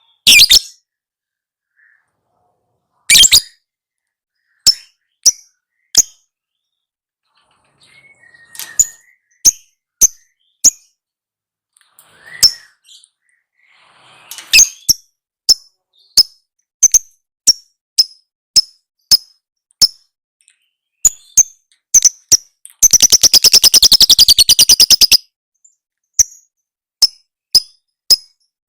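Lovebird song: a string of short, sharp, high-pitched chirps at uneven intervals, with a fast rattling trill lasting about two seconds about two-thirds of the way through.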